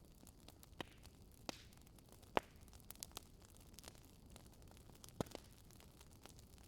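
Wood burning in a Swedish fire log: quiet crackling with sharp pops at irregular intervals over a faint steady hiss, the loudest pop about two and a half seconds in.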